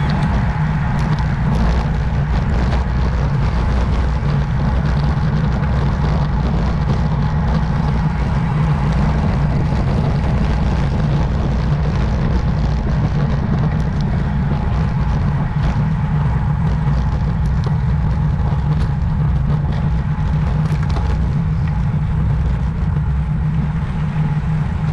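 Steady rush of wind over a camera microphone on a moving road bike, with the rumble of the tyres on the road underneath; no change through the whole stretch.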